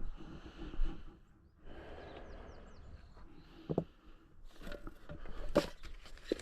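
Irregular rustling and crunching in dry leaves and brush, with a few sharp snaps, and a quick run of short high bird chirps about two seconds in.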